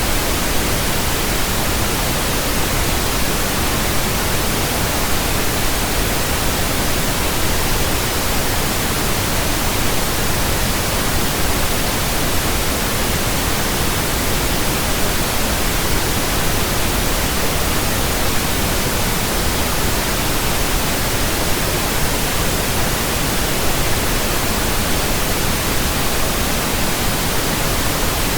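Steady pink noise, an even, unbroken hiss, from a pink noise generator and recorded as a burn-in track for speakers and earphones.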